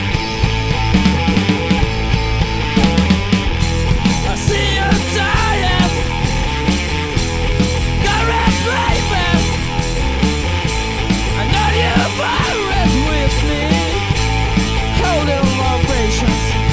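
Stoner rock band playing live: loud heavy rock music with a driving beat.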